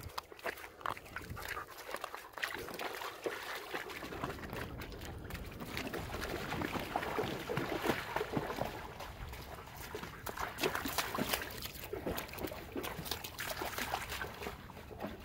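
Two shepherd dogs wading and splashing in shallow river water: an irregular run of small splashes and sloshes, busiest in the middle.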